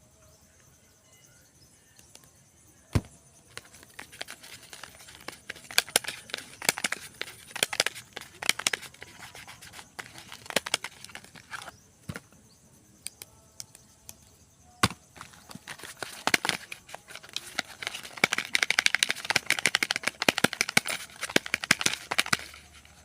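Soap bars being unwrapped by hand: packaging crinkling and crackling in irregular spells, with a few single sharp clicks, the densest crackling near the end.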